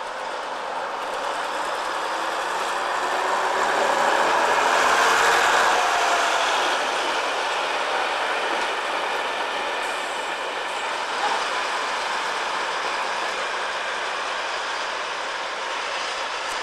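Class 101 diesel multiple unit running past: its diesel engines and wheels on the rails grow louder to a peak about five seconds in, then slowly fade as it draws away.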